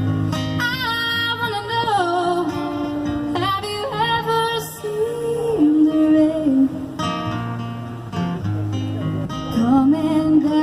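A woman singing over a strummed acoustic guitar, her voice sliding through long held notes with no clear words.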